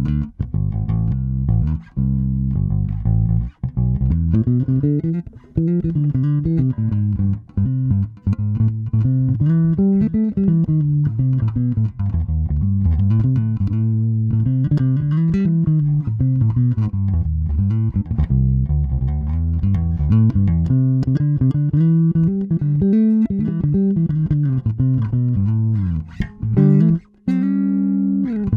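FGN Mighty Power electric bass with a Seymour Duncan Quarter Pound pickup played solo: quick runs of plucked notes that climb and fall, broken by a few short pauses.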